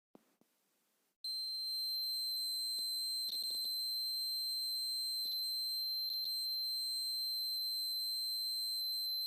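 Electronic buzzer of a homemade rain detector alarm sounding one continuous high-pitched tone, starting suddenly about a second in, with a few faint clicks over it. The buzzer sounds when water bridges the rain sensor.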